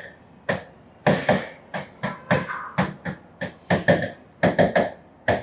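Writing on a classroom board: a string of sharp, irregular taps and short strokes, about three a second.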